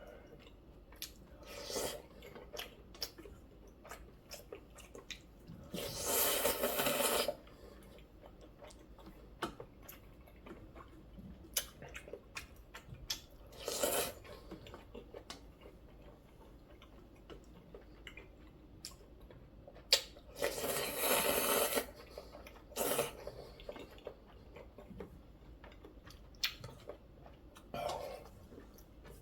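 Close-miked eating of kalguksu noodle soup: chewing with many small clicks and taps, and two long noisy slurps of noodles or broth, about six seconds in and again about twenty seconds in.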